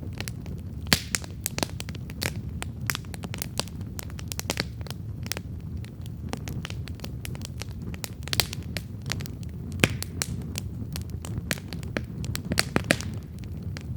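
Wood campfire crackling and popping: irregular sharp snaps over a steady low rumble of the flames, with a few louder pops about a second in, near ten seconds, and near the end.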